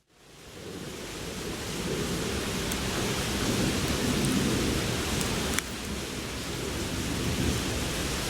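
Wood fire burning in a small campfire pit: a steady rushing, rumbling noise that fades in over the first second, with a few sharp crackling pops, the clearest about halfway through.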